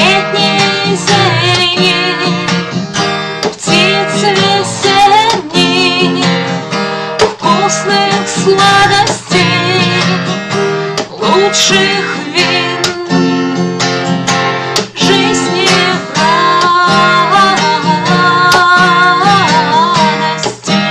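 A woman singing a birthday song over a strummed acoustic guitar.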